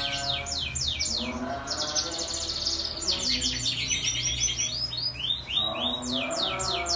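Canary singing a long, continuous song of rapid repeated down-slurred notes and fast trills, with lower held tones under it at the start and again near the end.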